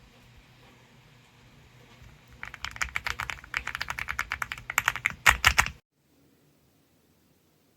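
Typing on an AULA F75 mechanical keyboard with pre-lubed Reaper switches: a fast run of key presses begins about two and a half seconds in, ends with a few louder strokes, then stops abruptly.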